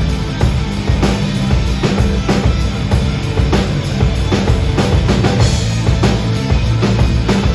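Rock band playing live, the drum kit keeping a steady beat of about two strikes a second under a full, loud band sound.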